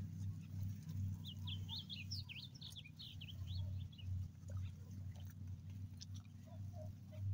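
A bird chirps in a quick run of short, high notes for about two seconds, starting about a second in, over a steady low rumble.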